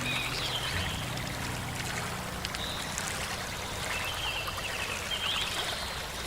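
Water running steadily like a stream, with short bird chirps in a few brief bursts and faint low sustained tones underneath.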